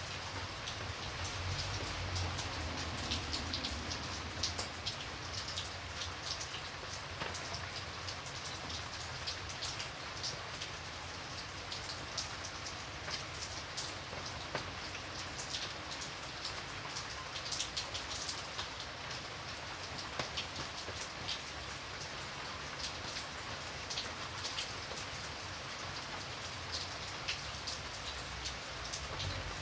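Steady rain falling, with many separate drops ticking sharply on a hard surface over an even hiss and a low rumble.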